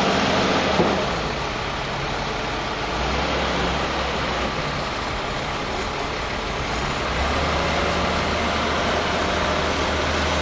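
Road traffic on a slushy, snow-covered street: a steady hiss of tyres through slush under the low drone of a heavy truck engine, which grows louder about three seconds in and again about seven seconds in.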